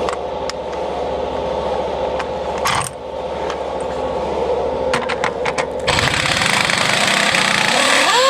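Steady machine hum with scattered clicks and knocks, then a power tool runs loudly for about two seconds near the end and winds down with a falling whine, as bolts come off an excavator's blade cutting edge.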